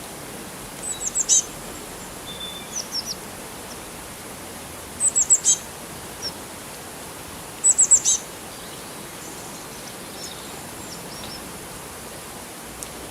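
Small birds chirping. Three quick phrases of four or five high, falling notes come about a second in, near five seconds and near eight seconds, with softer calls between them, over a steady rushing hiss of running water.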